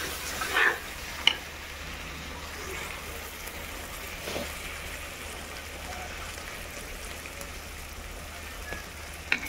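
Masala paste sizzling steadily in oil in a pot over a wood fire, fully roasted with the oil separating, with one sharp click about a second in.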